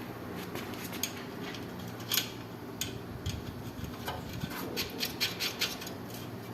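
Small metal clicks and scraping as a window AC's fan blade is handled and fitted onto the fan motor shaft. The clicks come more often in the second half, over a steady low hum.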